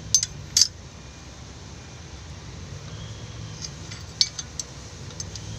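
Sharp metallic clinks of tools against engine metal: two near the start and a few more about four seconds in, over a steady low hum.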